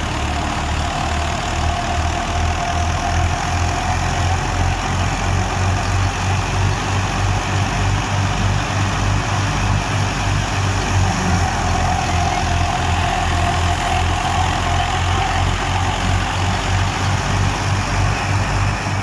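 Fiat 480 tractor's diesel engine running steadily under load, driving a wheat thresher: an even low pulsing beat under a dense rushing mechanical noise, with a wavering whine on top.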